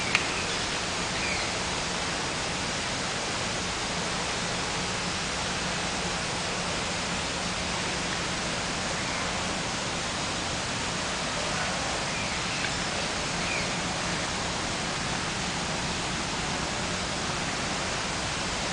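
A steady, even hiss with no clear source, with a faint low hum beneath it and a few faint, short, high sounds now and then.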